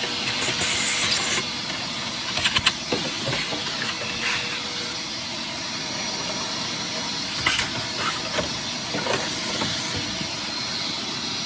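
Vacuum cleaner running steadily while vacuuming out a furnace cabinet, a smooth rushing noise with a faint steady hum. A few sharp knocks and rattles come through it.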